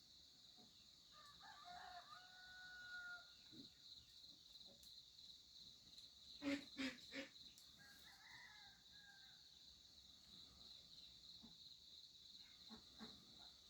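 A rooster crows faintly, ending on a long held note, with a second fainter call later on. About halfway through come three sharp knocks in quick succession. A steady high chirring of insects runs underneath.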